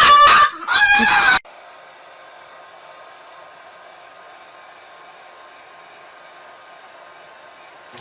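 A bird's loud, wavering, high-pitched call with a quivering pitch, cut off abruptly about a second and a half in. A faint steady hiss follows.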